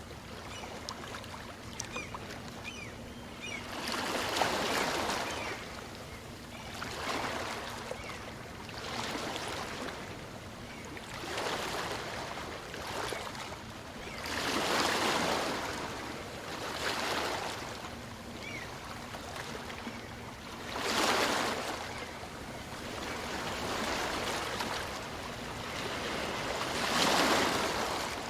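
Small waves of a calm sea breaking and washing in and out on the shore, each wash swelling and fading every two to three seconds.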